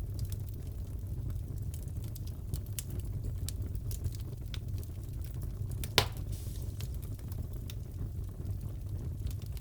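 Wood fire crackling in a fireplace: a steady low rumble with scattered small crackles, and one sharp, louder pop about six seconds in.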